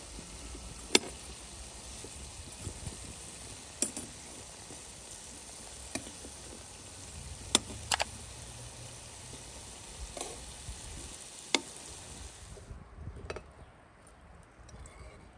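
Food sizzling as it fries in a hot pan, with several sharp clicks of a utensil against the pan. The sizzle cuts off suddenly near the end.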